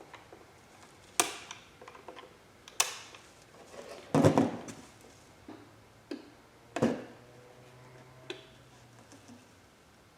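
Sharp clicks and knocks of small hard parts being handled, about six spread out with pauses between, the loudest a short clatter about four seconds in.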